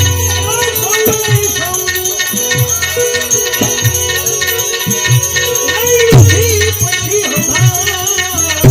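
Gujarati santvani bhajan music: a hand drum plays rhythmic strokes with bending bass notes, over held melodic tones and jingling hand percussion.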